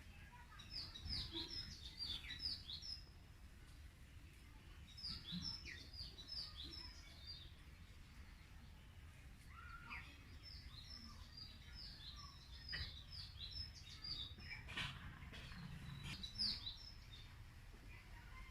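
Birds chirping: runs of quick, high notes repeated every few seconds, over a low background rumble.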